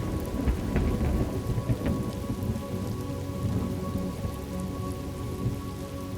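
Thunderstorm: steady rain falling, with a low rumble of thunder and crackles in the first couple of seconds that then settles.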